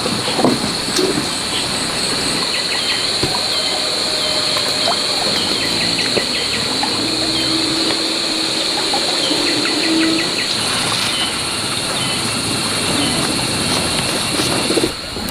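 Outdoor rural ambience: a steady high drone of insects under a constant hiss, with scattered short bird chirps through the middle.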